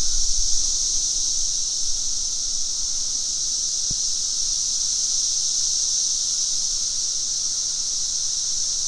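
Chorus of periodical cicadas, the males' mating calls merging into one steady, high-pitched drone that does not let up.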